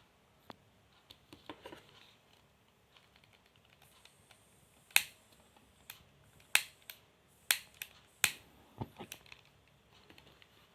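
Four sharp clicks about a second apart near the middle, with softer ticks and light handling noise around them.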